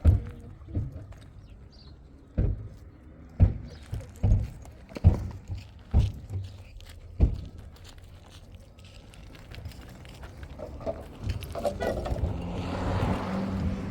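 A series of dull low thumps, roughly one a second, followed near the end by a growing wash of noise with a faint pitched hum.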